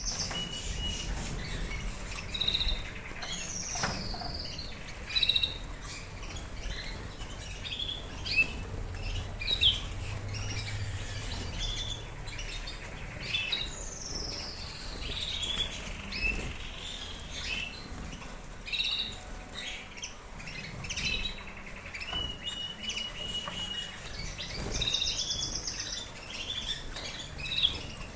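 Fife Fancy canaries chirping and singing in short, scattered phrases of rising and falling notes and trills, with wings fluttering now and then.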